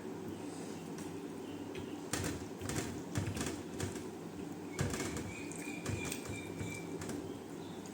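Close-up eating sounds: chewing and wet mouth clicks in two short crackly clusters, over a steady low background hum.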